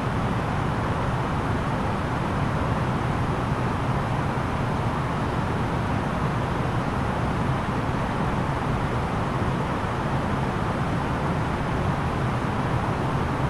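Steady cabin noise of an Airbus A330-900neo airliner in flight: an even rush of airflow with the low hum of its Rolls-Royce Trent 7000 engines, unchanging throughout.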